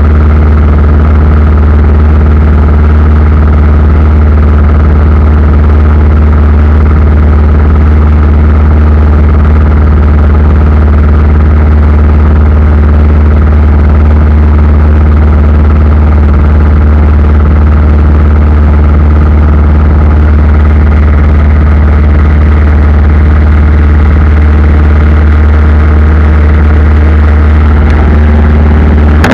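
Aircraft engines droning steadily, heard from inside the passenger cabin: a loud, unchanging low hum with steady tones above it.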